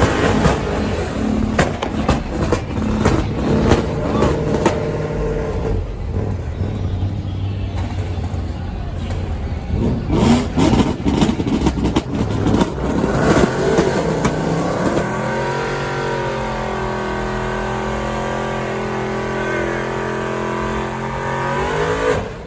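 Muscle car engine being revved hard with sharp crackles. Its pitch climbs and is then held steady at high revs for about seven seconds before falling away near the end.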